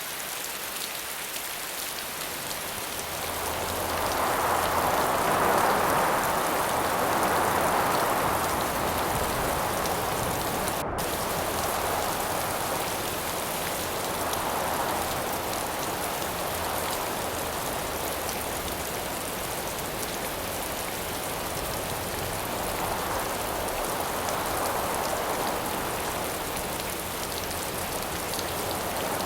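Steady rain falling, a continuous hiss, with wind gusts swelling and fading over it several times, the strongest a few seconds in.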